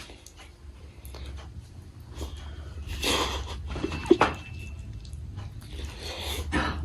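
Close-miked chewing of a chicken momo dumpling: soft, irregular mouth sounds and small clicks, a little louder about three seconds in, over a steady low hum.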